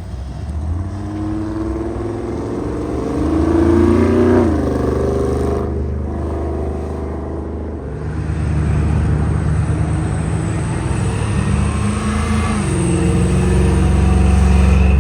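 Car engine running, revving up to a peak about four seconds in and dropping back, then running steadily.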